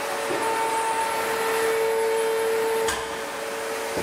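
Hydraulic forging press running: a steady hiss with a high, even whine that drops back about three seconds in.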